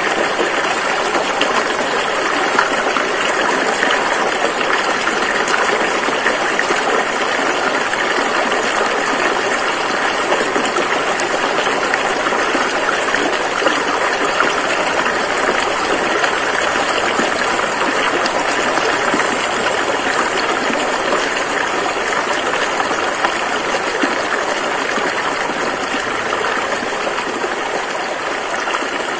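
A river's water rushing and flowing steadily, an even watery hiss.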